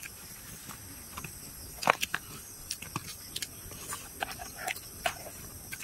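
People eating rice by hand and chewing: scattered, irregular mouth smacks and small clicks, the sharpest about two seconds in.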